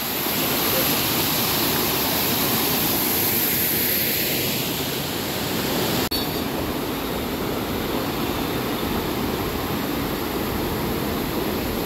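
Waterfall: a steady rush of falling water, with a brief click and dropout about six seconds in.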